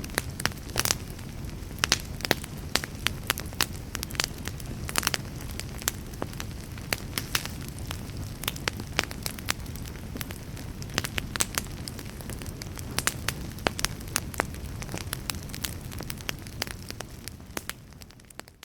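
Fire crackling: frequent sharp pops and snaps over a steady low rumble of flames, fading down near the end.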